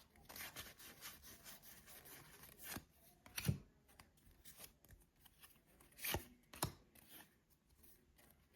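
Faint handling of football trading cards: soft rustles and sliding as the cards are thumbed through the pack, with a few sharp clicks, the loudest about three and a half seconds in and another pair around six seconds.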